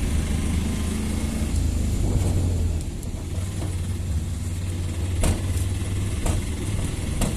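Motor vehicle engine noise on a highway: a low rumble that eases about three seconds in, with a few short sharp clicks later on.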